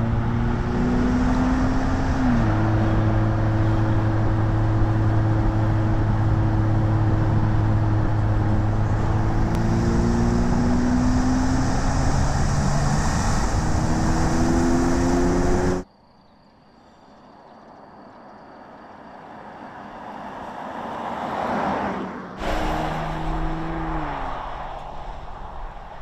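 Porsche Cayenne S Coupe's twin-turbo V6 pulling under load, its pitch dropping at a gear change early on and rising steadily as it accelerates later. After a cut, the car is heard approaching from afar and growing louder, then the engine is close again near the end, its pitch stepping down once.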